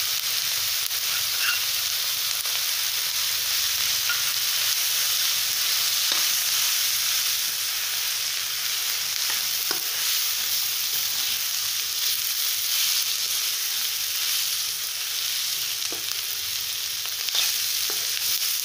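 Chopped capsicum and onion sizzling in hot oil in a non-stick kadai while being stirred with a steel spoon as gram flour is worked in. A steady frying hiss with a few light clicks of the spoon against the pan.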